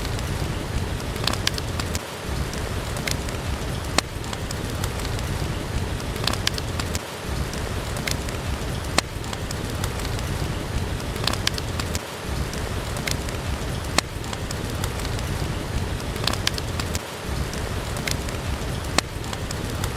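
Steady heavy rain falling, mixed with the crackles and pops of a wood fire burning in a fireplace.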